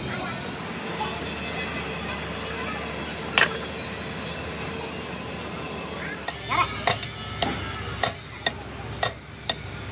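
Metal parts being tapped and knocked with hand tools: a single sharp tap about three seconds in, then from about six seconds a run of sharp metallic taps, roughly two a second, over a steady background hiss.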